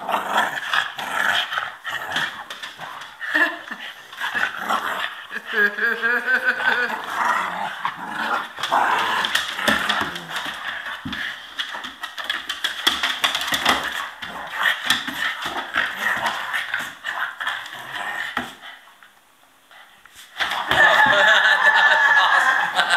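Two puppies play-fighting, growling and barking at each other, with a short lull near the end.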